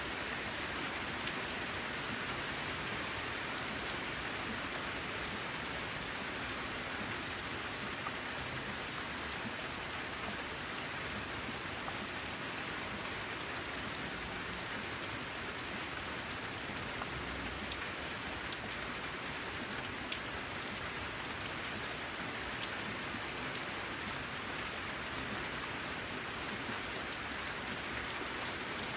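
Steady rain falling, with scattered sharper drop hits over an even hiss.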